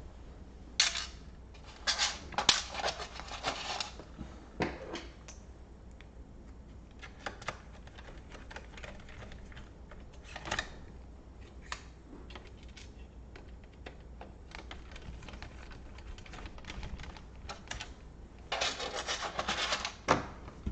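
Laptop parts being handled: scattered sharp clicks with two spells of rapid clicking and rattling of small hard pieces, one a couple of seconds in and one near the end.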